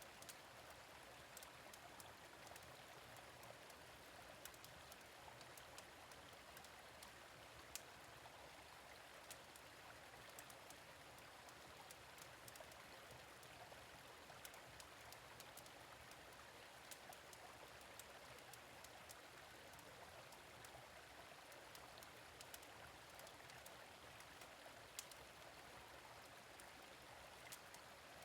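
A gentle stream running steadily, with sharp wood-fire crackles scattered through it, all faint.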